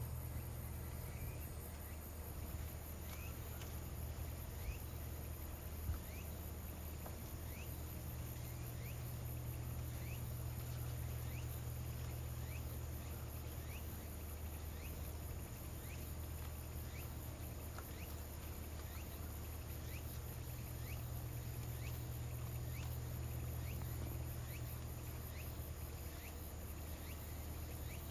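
Insects trilling in a steady, fast high pulse, with short rising chirps about once a second and a low steady hum underneath.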